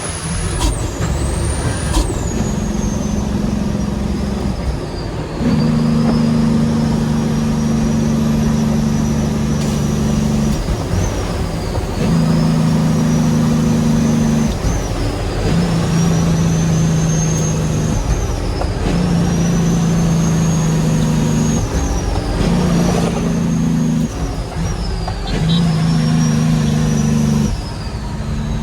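Heavy diesel dump truck pulling and working through its gears. The engine note holds for a few seconds, breaks at each shift and comes back at a new pitch, and a high whine rises through each gear and falls at every shift.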